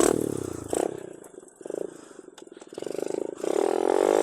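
110cc semi-automatic mini dirt bike engine running just after a kick start, revved in several short blips about a second apart, then revving up and held higher for the last second or so.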